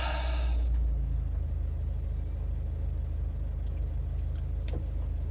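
Car engine and road rumble heard from inside the cabin while driving, a steady low drone, with a faint click near the end.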